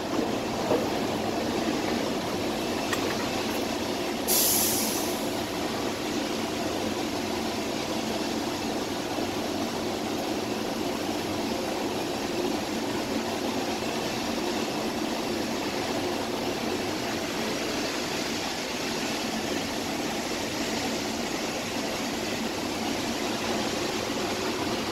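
Steady running noise heard inside a DFW Skylink automated people-mover train car, with a brief high hiss about four seconds in.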